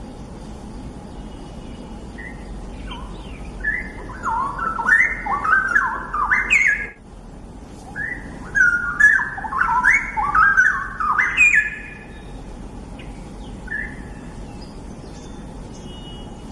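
Straw-headed bulbul (cucak rawa) singing two rich, bubbling warbled phrases, each about three to four seconds long with a short break between, over a steady background hiss.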